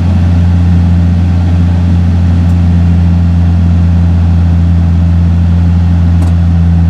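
A diesel engine idling steadily, a deep even hum that does not change. A faint click comes about six seconds in.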